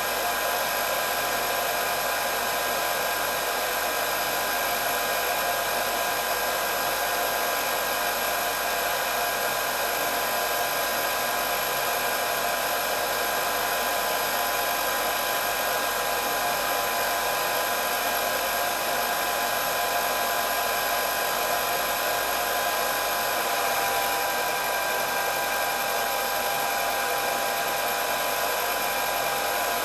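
Electric hair dryer running steadily, a constant rush of blown air with a steady high-pitched motor whine.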